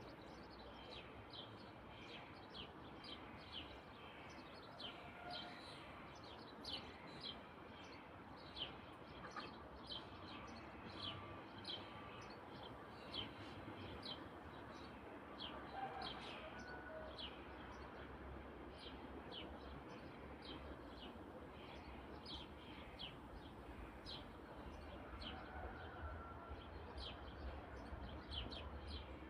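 Birds chirping: many short, high calls repeating throughout over a faint steady background noise.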